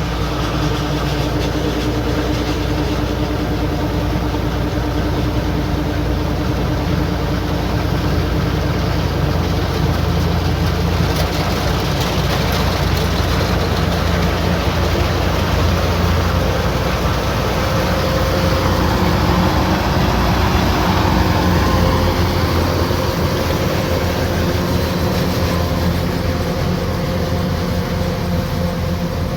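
Kubota combine harvester running steadily: a loud, even mechanical drone whose pitch shifts partway through.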